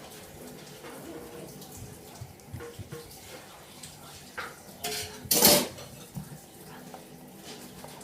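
Kitchen utensil clattering against a bowl: a few light clicks, then a short, loud clatter about five seconds in.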